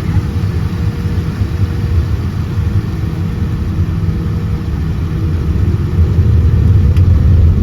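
Boeing 787-10 airliner's jet engines, a loud steady low rumble that grows louder about six seconds in.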